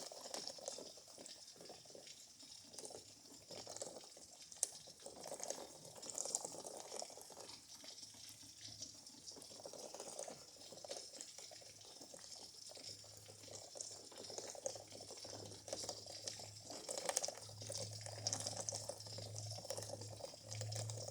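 Raindrops falling and dripping: a faint, irregular patter of small drops and splashes, with one sharper drop about four and a half seconds in. A low hum joins about halfway through and grows stronger near the end.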